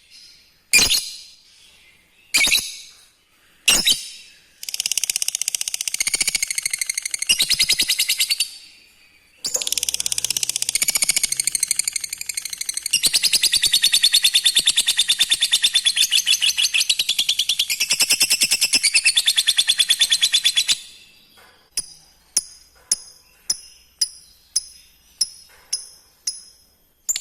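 Lovebird calling: a few sharp single calls, then long rapid chattering trills (ngekek), the longer one about eleven seconds, followed by a run of short clipped chirps about twice a second.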